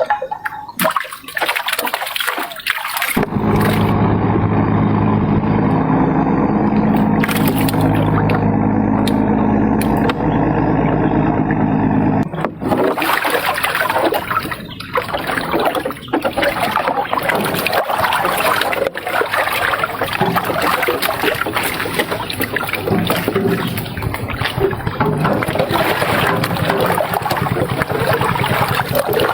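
A boat's motor runs steadily for about nine seconds, then cuts out. Water rushes and splashes for the rest of the time.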